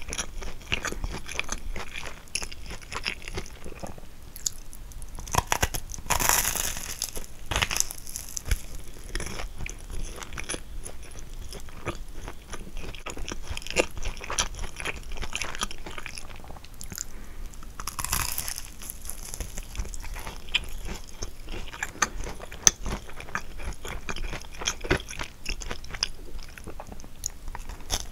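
Biting and chewing a kouign-amann: its crisp caramelized crust crunches, loudest in bites about six seconds in and again around eighteen seconds, with soft chewing and mouth sounds in between.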